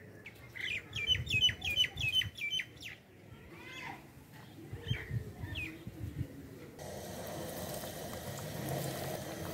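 A bird calling in a quick run of about eight sharp chirps, then a few single calls. From about seven seconds in, a breaded chicken nugget sizzling steadily as it deep-fries in hot oil.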